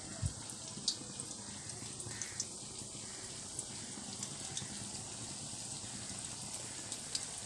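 Coriander-leaf batter fritters frying in hot oil in a kadai: a steady sizzle with scattered small pops.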